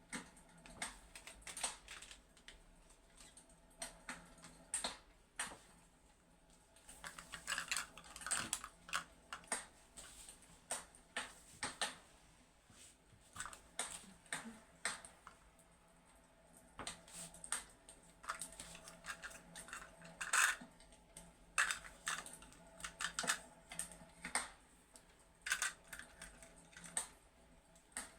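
Fireplace crackling: irregular sharp crackles and pops, sometimes in quick clusters, with short quieter gaps between.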